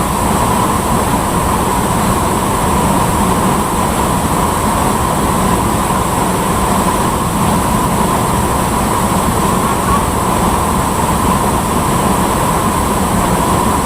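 Waterfall rushing, a loud continuous noise that stays steady throughout.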